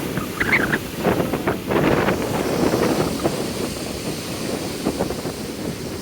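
Gale-force wind buffeting the microphone over lake waves breaking on the shore, in irregular gusts that are strongest in the first couple of seconds and ease a little after.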